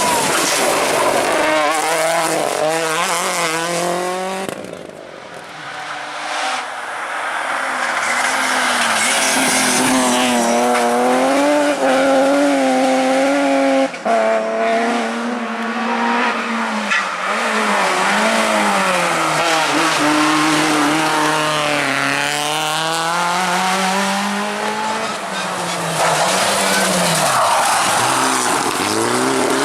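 Rally cars driven flat out, one after another: engines revving high, the pitch climbing and dropping again and again as the cars accelerate, lift and change gear, over a haze of tyre noise.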